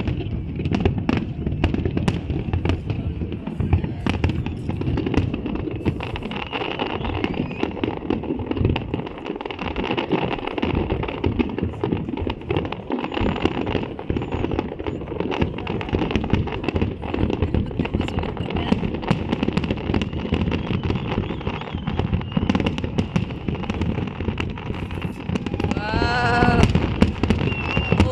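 Fireworks display: a continuous barrage of rapid bangs and crackling, with music in the background and a brief wavering pitched tone near the end.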